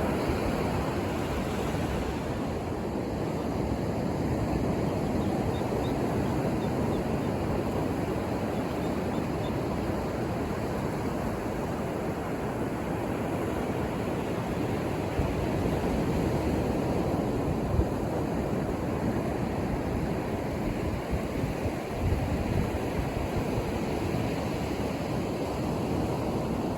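Ocean surf washing onto a beach in a steady rush, with wind buffeting the microphone in a few brief low thumps.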